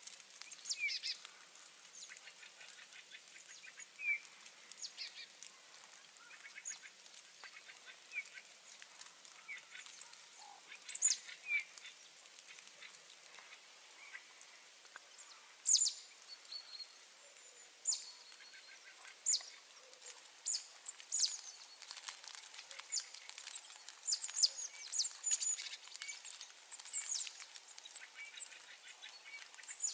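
Small birds calling back and forth: many short, sharp, high chirps and downward-sweeping call notes, coming irregularly and more often in the second half, over a faint steady background hiss.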